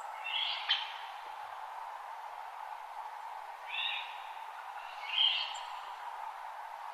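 A wild bird giving three short, high chirping calls, a few seconds apart, over a steady background hiss of a dawn forest.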